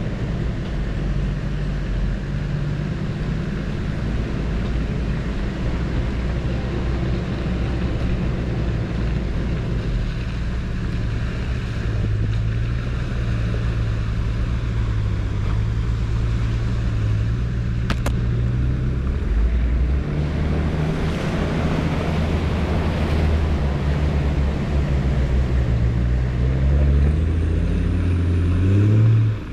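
Four-wheel-drive vehicle's engine running at low revs on a rocky off-road track, its pitch shifting with the throttle and rising near the end. A single sharp click sounds partway through.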